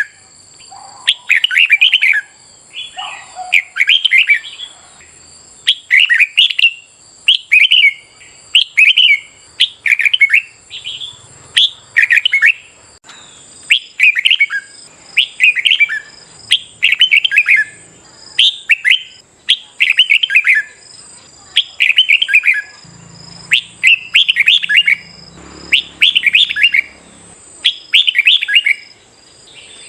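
Red-whiskered bulbul singing loud, short whistled phrases over and over, about one phrase a second with brief gaps between.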